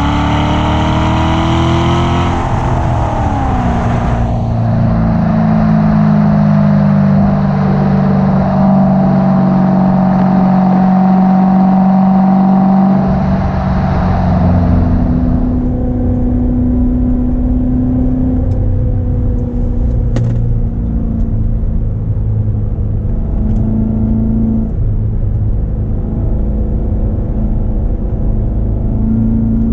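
The supercharged 6.2-litre LT4 V8 of a 2016 Corvette Z06 running on the road. The engine note rises briefly, drops about three seconds in, holds steady, then falls again about fifteen seconds in to a lower, steady note with small rises and dips.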